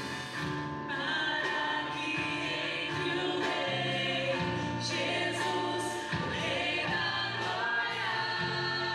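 Christian worship song: many voices singing together in held notes over steady bass notes and a regular drum beat.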